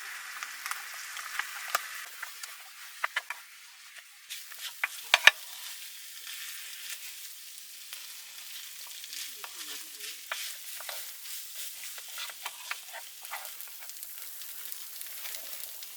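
Food sizzling in a frying pan, with scattered sharp clicks and taps through the hiss; the sizzle dips briefly about four seconds in, then comes back.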